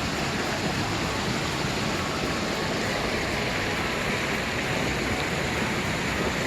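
Mountain stream water rushing and splashing over rocks in a steady, even wash of sound.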